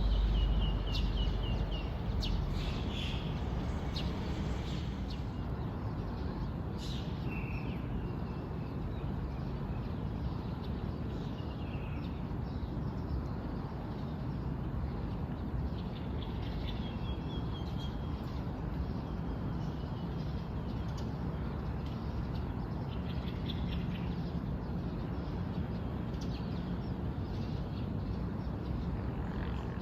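Birds chirping and calling in short, scattered phrases over a steady low background rumble.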